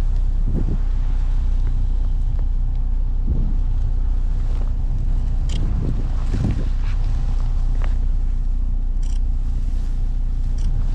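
Blizzard wind buffeting the microphone: a steady, heavy low rumble, with a few faint ticks.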